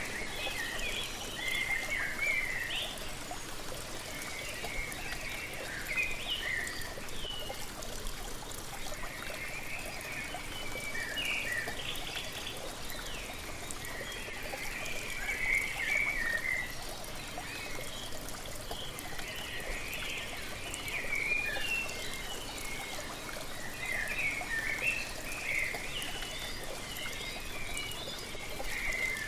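Waterfall splashing steadily, with birds chirping and singing in short bouts every few seconds over it.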